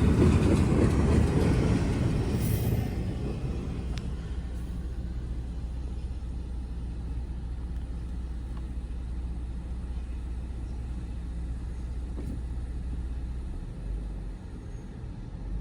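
Train going by, its rolling rumble fading over the first three seconds and leaving a steady low rumble.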